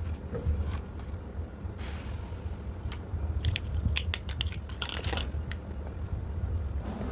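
Plastic toy parts and packaging being handled: a run of light clicks and taps, with short rustles about two seconds in and near the end, over a low rumble of handling noise.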